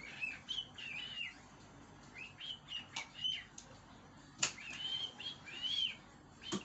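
Cockatiel singing: a run of short whistled chirps that rise and fall, with a few sharp clicks in between, the loudest about four and a half seconds in.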